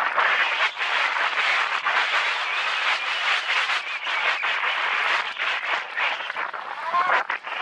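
Mountain bike riding fast down a rough dirt trail: a continuous rush of tyre and trail noise with many quick knocks and rattles from the bike over bumps. A brief squeal comes about seven seconds in.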